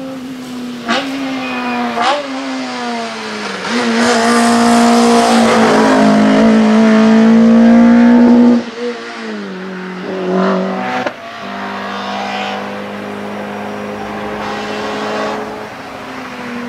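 Renault Clio RS hillclimb car's four-cylinder engine at racing revs, its pitch rising and falling as it works through the gears. It is loudest about halfway through as the car passes close, then drops away suddenly and carries on quieter.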